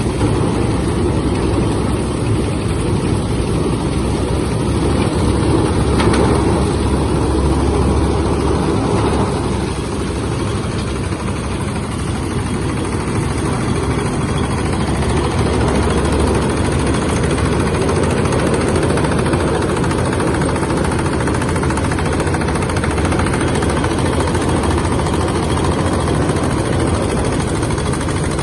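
Coconut husk decorticating machine running, a loud continuous mechanical noise. The level swells slightly about six seconds in and dips briefly a few seconds later, then holds steady.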